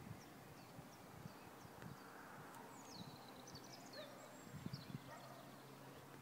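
Faint birdsong: scattered short high chirps, with a longer trilling song phrase that falls in pitch a little before halfway through. A few soft low knocks come about three quarters of the way in.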